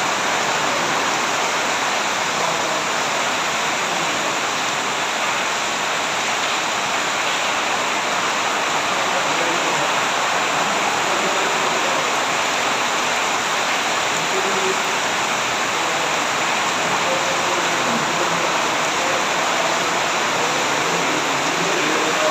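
Heavy rain pouring down, a dense steady hiss with no let-up.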